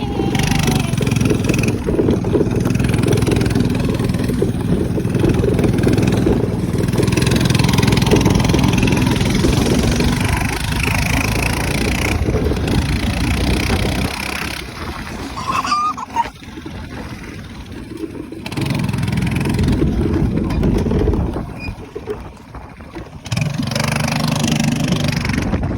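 Minibike's small engine running at speed, easing off and dropping back twice past the middle, then picking up again near the end.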